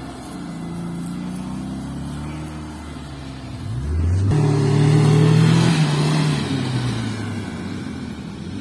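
Off-road vehicle's engine running, revving up sharply about four seconds in, holding high for a couple of seconds, then easing back down.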